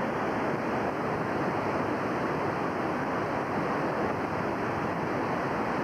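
Floodwater of a swollen river rushing past in rough, fast water, a steady unbroken rush.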